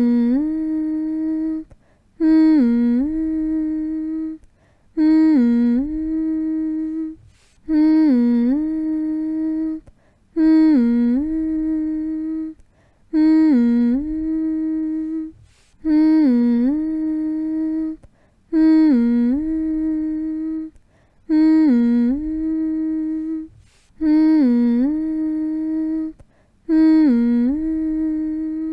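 A voice humming the same two-note 'mm-hmm' phrase over and over, about once every two and a half seconds. Each hum dips briefly in pitch, then holds one steady note, with a short pause for breath between. It is a slow, repetitive hum used to soothe a baby to sleep.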